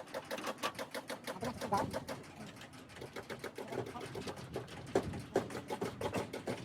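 Rapid, uneven mechanical clicking, several clicks a second, with a few louder knocks about two and five seconds in.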